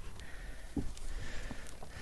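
Wind rumbling on the microphone, with a couple of faint knocks.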